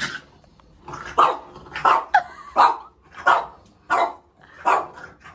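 Pet dogs barking repeatedly in a steady run of sharp barks, roughly one every two-thirds of a second. They are alarm barks at a person they don't recognise, which she reads as the dogs being scared.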